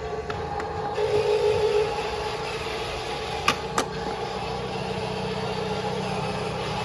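Small electric motor and plastic gears of a Huina 1573 RC dump truck running with a steady whine, louder for about a second near the start, with two sharp clicks a third of a second apart about halfway through.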